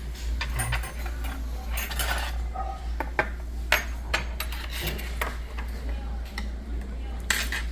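Cutlery clinking and knocking against bowls and a pot while eating, a string of scattered light clicks.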